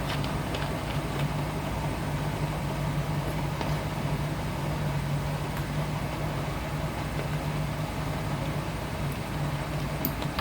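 Hotpoint NSWR washing machine running with a steady low hum that swells and fades, over a broad mechanical whir and a few faint ticks: the odd noise its owner cannot explain.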